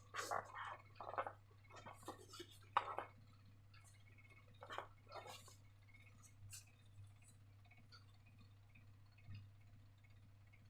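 Faint, scattered small clicks and soft sticky handling sounds of slime being made and worked with balloons, busiest in the first three seconds, over a faint steady hum.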